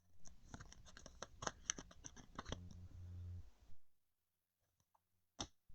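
Trading cards and pack wrappers being handled: rapid crinkling and clicking for about three and a half seconds, then a single click near the end.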